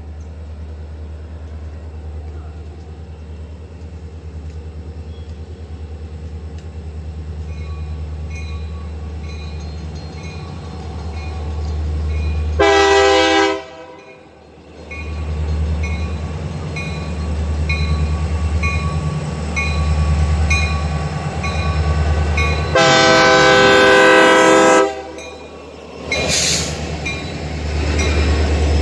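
Norfolk Southern diesel locomotive drawing closer, its engine rumbling steadily and growing louder, with a bell dinging at an even pace from about a quarter of the way in. The air horn sounds once briefly about halfway, then a longer blast of about two seconds near the end.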